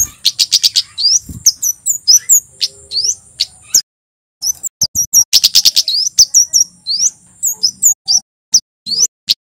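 Male kemade jawa, a flowerpecker, singing a fast run of sharp, high chipping notes broken by quick rattling trills. There are two phrases, with a brief pause near four seconds. A thin steady high whistle runs under most of each phrase.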